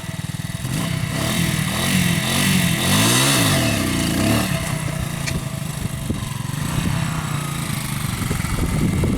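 Motorcycle engine running, revved up and down several times between about one and four and a half seconds in, then settling back to a steady run.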